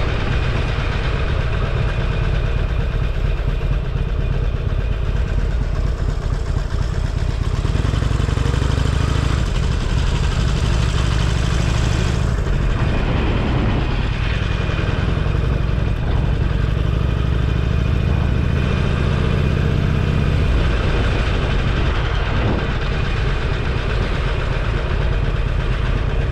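Motorcycle engine running at low speed with a steady low note that grows stronger from about eight seconds in and eases back at about twenty seconds.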